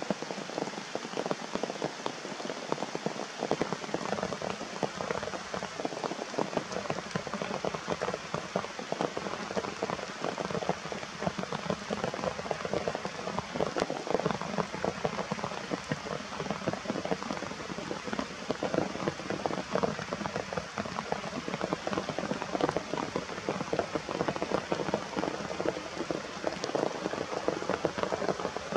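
Steady rain falling, a dense patter of drops striking surfaces close by.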